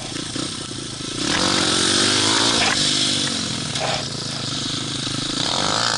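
Small single-cylinder pit bike engine revved hard for a snow wheelie: the throttle opens about a second in, the revs climb and hold, then ease off around the halfway mark and the engine runs on at lower revs.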